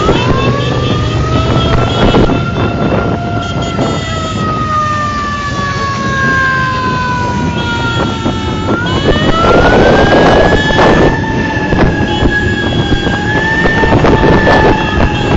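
A siren sounding: it winds up at the start, sinks slowly in pitch for about nine seconds, then winds up again higher and holds. Vehicle engines and road noise run underneath.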